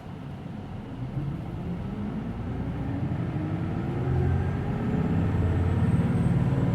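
Hino Blue Ribbon City Hybrid bus's diesel engine pulling away from a stop, heard inside the cabin: the engine note rises in pitch and grows louder as the bus accelerates, loudest over the last couple of seconds.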